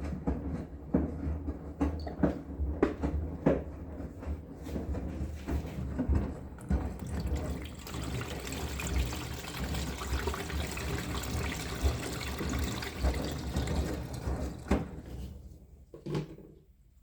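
Water rushing into a washing machine as it fills, fading away near the end. A series of clicks and knocks comes before the water.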